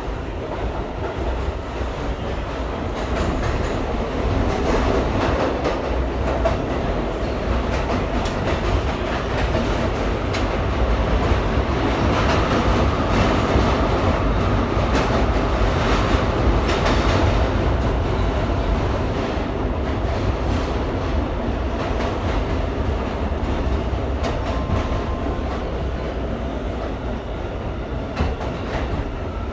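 R179 subway car running at speed between stations, heard from inside the car: a steady rumble of steel wheels on the rails with clacking over rail joints, growing louder through the middle of the run.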